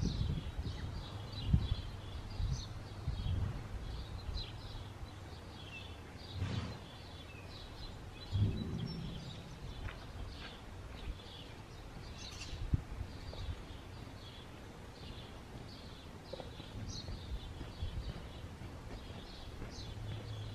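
Birds chirping over and over outdoors, over a low steady rumble, with a few dull thuds, the strongest about eight seconds in.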